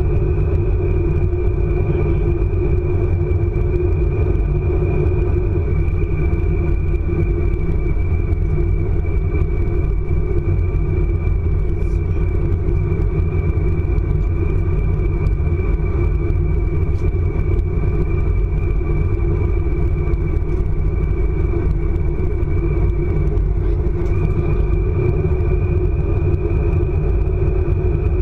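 ICE high-speed train running at speed: a steady heavy rumble with a thin high whine over it. The whine sags a little and then steps back up about three quarters of the way through.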